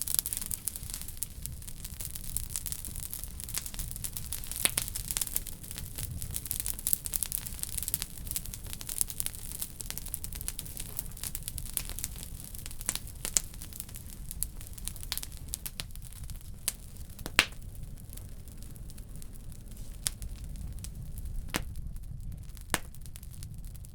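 Wood-burning stove fire crackling: dense snaps and pops from the burning wood over a low steady rumble of the draft, thinning out in the second half with a few louder single pops.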